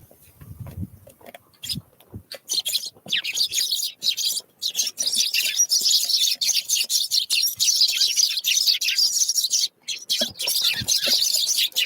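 Small wild birds chirping rapidly and almost without pause, starting about two and a half seconds in, with scattered sharp taps among the calls.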